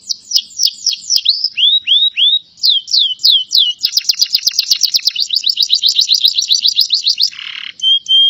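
Adult male canary singing a long song of rapid trills, with a few downward-sliding notes about two seconds in. Near the end comes a short harsh rasp, then a briefly held note.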